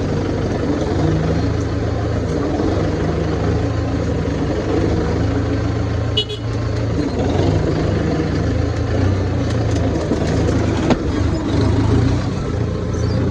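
Tractor engine running steadily with a low, even drone, with a brief click about six seconds in.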